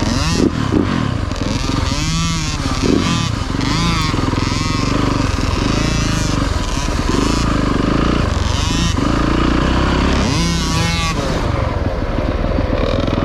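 Dirt bike engine under way on a motocross track, revving up and dropping back again and again as the throttle is opened and rolled off.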